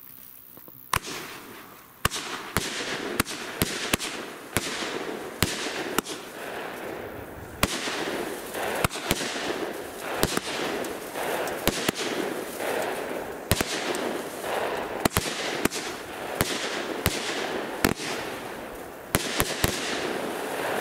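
Funke "Lemon Blue" firework battery firing shot after shot: a couple of dozen sharp bangs, roughly one a second, starting about a second in, over a steady crackle and hiss from the bursting stars.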